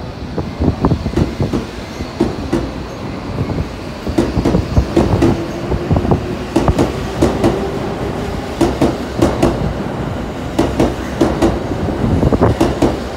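Tobu 70000 series electric train pulling out of the station and passing close by, its wheels clacking over rail joints in clusters over a steady rumble. A steady tone joins in about four seconds in.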